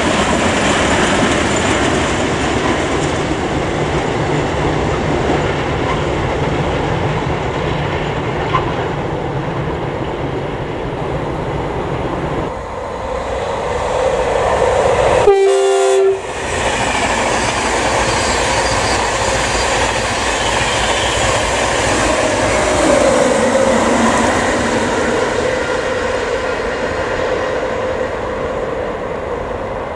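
A freight train of tank wagons rumbling and clattering past, then a short train horn blast about halfway through, followed by an LNER Class 91 electric locomotive and its coaches passing, with a tone that falls in pitch as it goes by.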